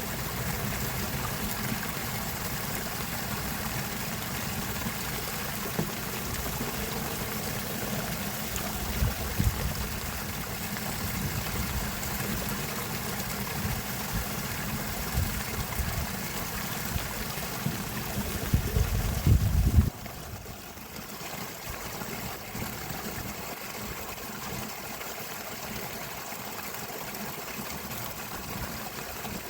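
Flowing water, a steady rush with a heavy low rumble that drops away suddenly about two-thirds of the way through, leaving a quieter trickling flow.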